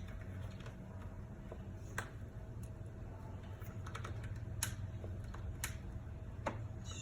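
Scattered light clicks and taps of hands and tools on a plastic ignition coil pack and its connector as it is unclipped and worked free from an engine, a few sharper clicks among fainter ones, over a steady low hum.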